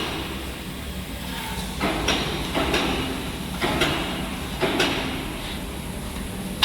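Plasma compressor case-cutting machine running: a steady low machine hum with several short, harsh noisy bursts about a second apart.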